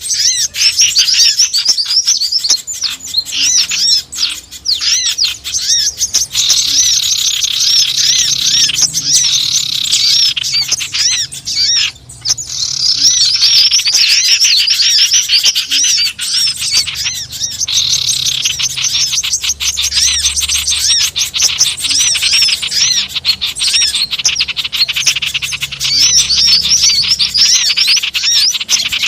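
Many small wild birds chirping and twittering noisily together in a dense, continuous chatter of rapid high notes, as played to lure wild birds in, with a brief lull about twelve seconds in.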